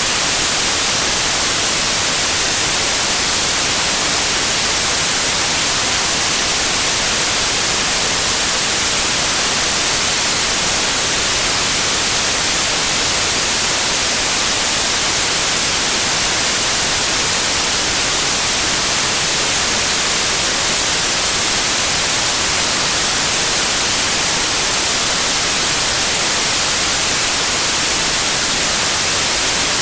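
Steady, electronically generated noise track offered as pink noise: a loud, even hiss that never changes, with its energy leaning toward the treble.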